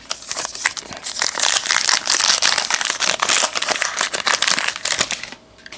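Loud crinkling and crackling of a foil trading-card pack wrapper being handled, a dense rustle of small crackles that builds after the first second and stops shortly before the end.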